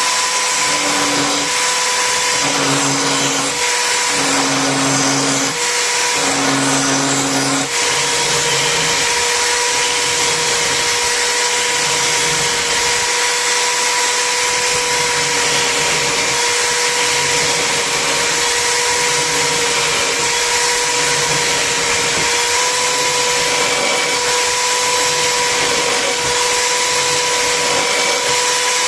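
Electric power tool motor running steadily at constant speed, with a steady whine.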